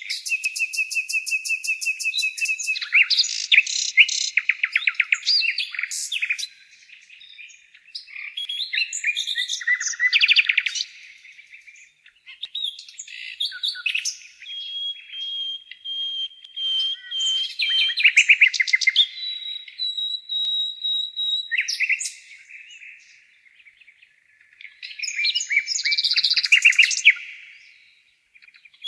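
Nightingale singing: several loud song phrases, each a few seconds long and separated by short pauses. They are built of fast trills of repeated notes and long, even whistled notes.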